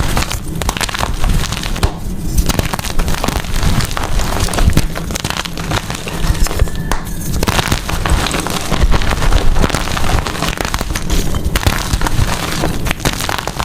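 Blocks of gym chalk being crushed and crumbled, a dense run of crackly crunches that eases briefly about two seconds in and again around seven seconds.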